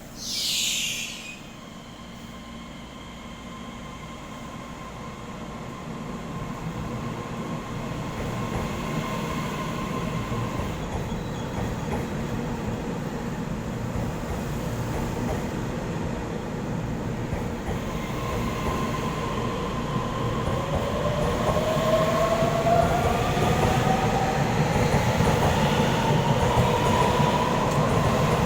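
TRA EMU3000 electric multiple unit pulling away: a short falling hiss about half a second in, then rumble building as the train gathers speed. From about two-thirds of the way in, the traction motors' whine rises steadily in pitch.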